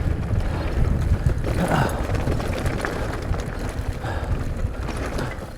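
Wind buffeting the camera microphone over the rumble and rattle of an electric mountain bike rolling along a rough, rutted dirt trail.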